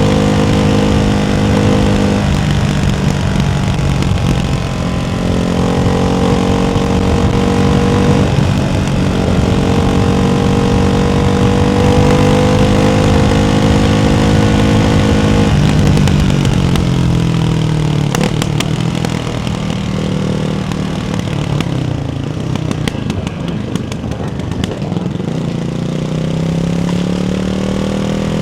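Ducati Hypermotard 698's single-cylinder engine through a baffled Termignoni exhaust, running at steady cruising speeds with the pitch dropping and rising several times. Past the middle the note falls away on a closed throttle with a patter of overrun crackles, then rises again near the end as the throttle opens.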